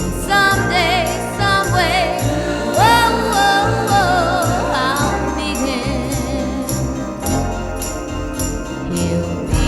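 1960s girl-group pop record: a woman's lead vocal with wide vibrato over dense, echoing backing with a steady beat. The lead voice drops out about halfway through, leaving the backing with fainter voices.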